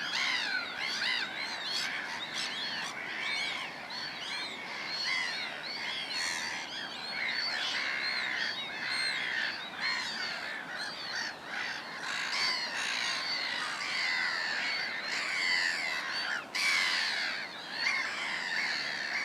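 Many birds calling at once in a dense, continuous chorus of short calls that rise and fall in pitch, overlapping without a break.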